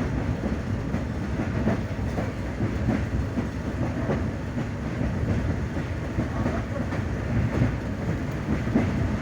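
Train running along the track: a steady low rumble with irregular clatter from the wheels on the rails.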